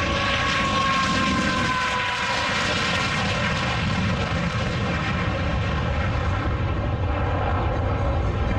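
MiG-17 jet fighter's turbojet engine on a pass over the field: a loud, steady rush with a whine that falls slightly in pitch over the first couple of seconds.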